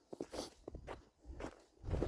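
Footsteps: a run of irregular steps.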